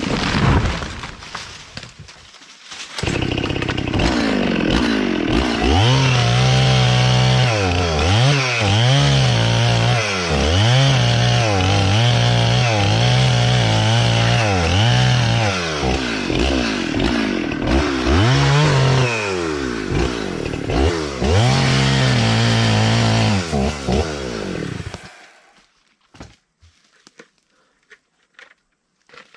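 Two-stroke chainsaw running, its engine pitch rising and falling over and over as it revs and drops back, before it shuts off about 25 seconds in. The saw is not running right.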